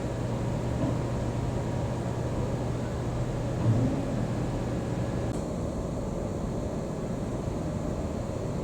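A steady low machine hum over a constant noisy background; the hum cuts off about five seconds in, and there is one short, low sound a little before that.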